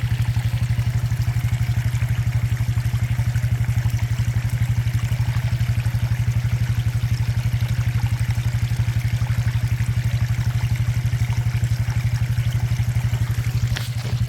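An engine idling steadily with a fast, even low pulsing.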